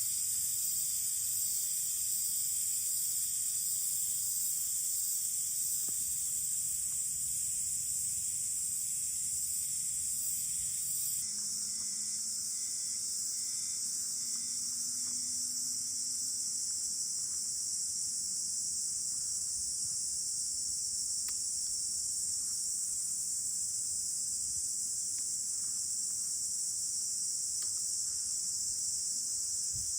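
A steady, high-pitched chorus of insects, unbroken throughout, changing abruptly in texture about eleven seconds in.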